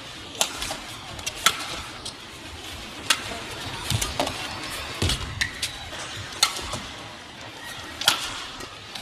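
Badminton rally: rackets striking the shuttlecock back and forth, about seven sharp hits roughly a second or more apart, over steady arena crowd noise.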